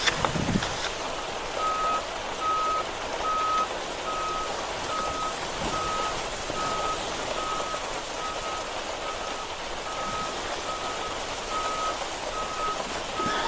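An electronic beeper sounding a steady, evenly repeated single-tone beep, a little under two beeps a second, starting about two seconds in, over a constant background hiss.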